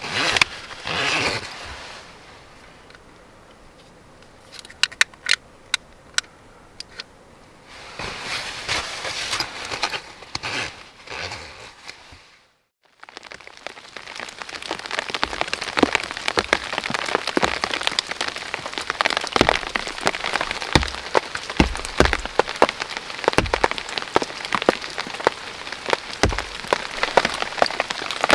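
Rain falling on a surface, a steady hiss dense with sharp drop hits, starting after a brief cut about halfway through. Before the cut the sound is quieter and uneven, with a few scattered clicks.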